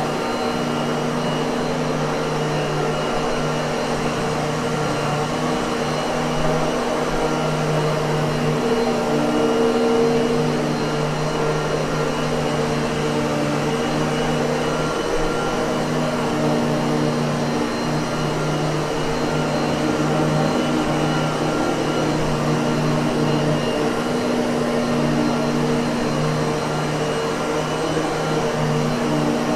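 Miele vacuum cleaner motor running steadily: a continuous airy whoosh under a few low hum tones that waver and shift slightly.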